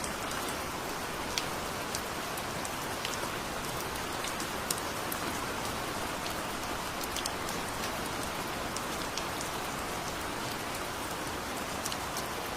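Heavy rain falling steadily, with individual drops ticking sharply here and there.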